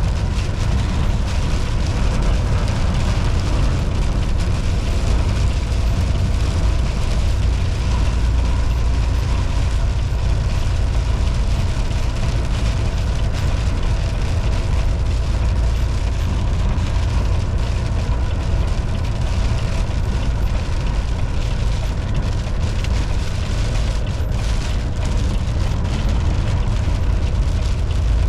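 Volvo VNL 760 semi truck driving at a steady speed: a constant low diesel engine rumble under road and tyre noise, with faint steady whines above it.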